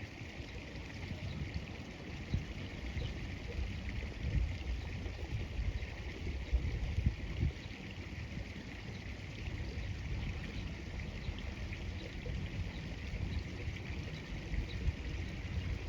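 Flowing river water, a steady hiss, with wind gusting on the microphone as an uneven low rumble.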